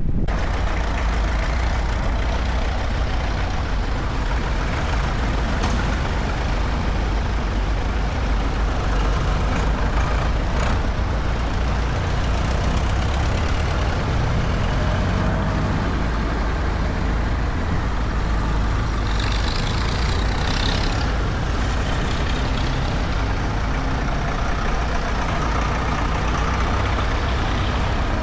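Tractor engines running steadily on the road, a deep low rumble with engine and road noise throughout. A brief hiss comes about two-thirds of the way through.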